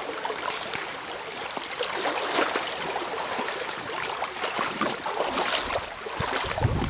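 A small creek running and splashing steadily over its bed, with a brief low rumble near the end.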